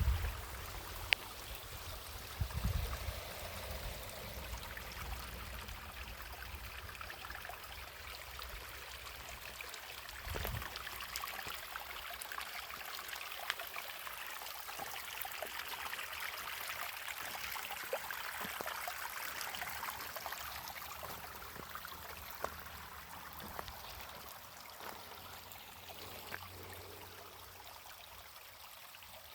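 Running water, like a stream flowing steadily, with low thumps in the first few seconds and once near the middle.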